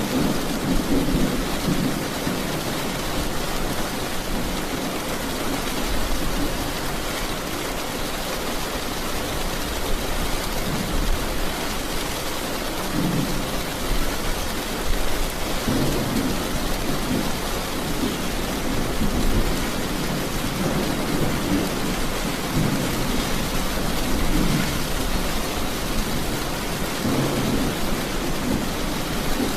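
Steady rain falling, a dense even hiss, with deeper low rumbles that swell and fade several times, near the start, around the middle and near the end.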